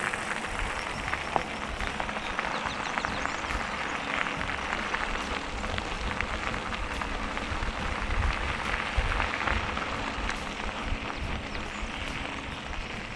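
Gravel bike tyres rolling over a gravel trail: a steady crunching hiss with many small scattered clicks.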